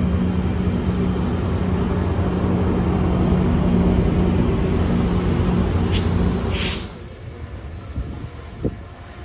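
Metrolink commuter train rolling past close by: a steady rumble of wheels on rail with a low hum and a high whine as the cars and then the locomotive at the rear go by. About seven seconds in the sound drops to a much quieter, distant BNSF freight train approaching.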